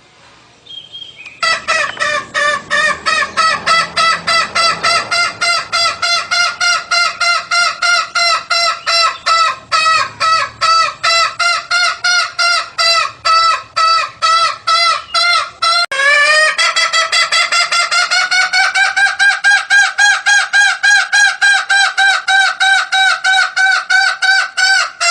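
Junglefowl calls used as a hunting lure: a long, fast run of repeated calls, several a second, steady in pitch, with a slight rise around sixteen seconds in. The run stops suddenly near the end.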